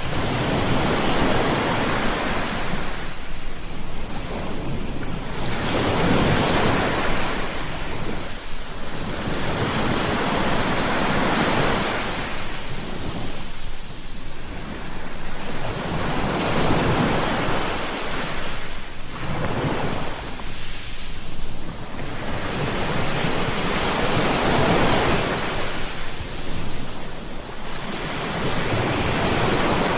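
Sea waves washing onto a shore, rising and falling in swells every two to three seconds.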